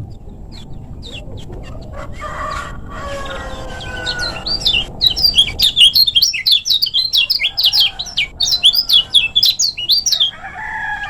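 Kecial kuning (a yellow white-eye) singing a fast, tightly packed run of short high chirps, starting about four seconds in and stopping near the end. Before the run there are lower, drawn-out calls.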